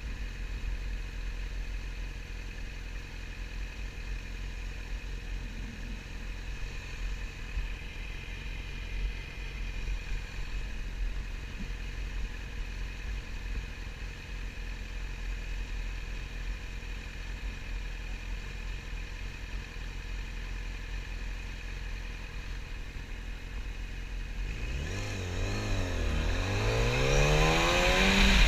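Yamaha YZF-R6 inline-four motorcycle engine running steadily, with low wind rumble on the microphone. About 25 seconds in, the engine revs up, its pitch rising, dipping, then climbing again as it gets louder.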